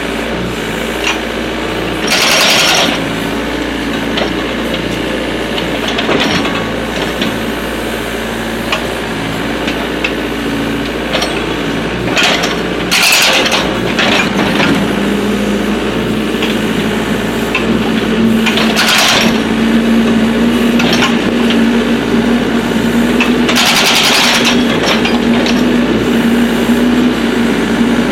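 Excavator diesel engine running steadily while its hydraulic breaker hammers in short bursts, about five times, splitting firewood. From about halfway the engine settles into a steadier, clearer hum.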